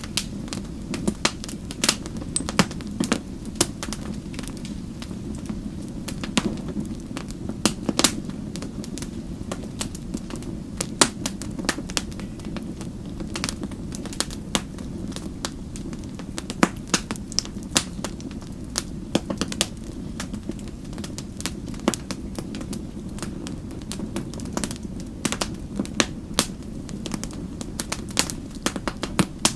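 Wood fire crackling: irregular sharp pops and snaps over a steady low sound of burning.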